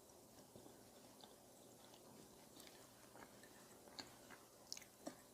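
Faint close-up chewing of soft mochi rice cake with udon noodles: scattered small mouth clicks, a few sharper ones about four and five seconds in.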